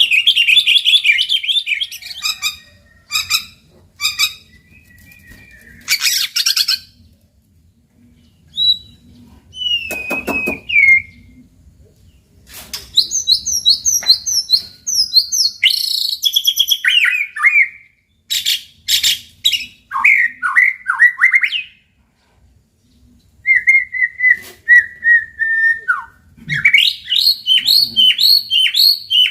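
White-rumped shama (murai batu) singing: a string of varied, loud phrases of clear whistles, fast repeated chattering notes and falling trills, broken by short pauses.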